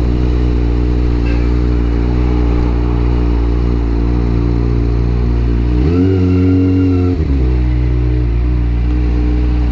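Kawasaki ZX-25R's 250 cc inline-four engine idling steadily as the bike rolls in and stops, with one short rise in revs held for about a second past the middle before it settles back to idle.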